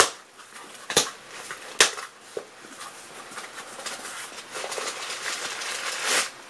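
A package being handled and rummaged through during unboxing: three sharp knocks or clicks in the first two seconds, then a stretch of rustling that builds to a louder rustle near the end.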